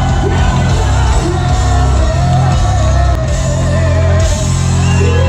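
Ragga-metal band playing live at full volume: heavy sustained bass and distorted guitar with a long wavering held note over it, and shouted, sung vocals.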